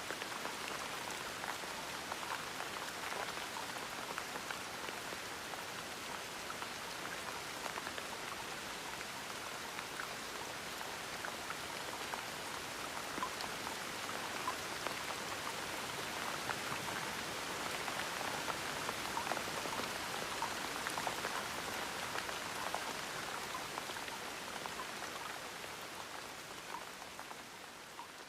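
Steady gentle rain falling, a soft hiss dotted with many small drop patters, fading out near the end.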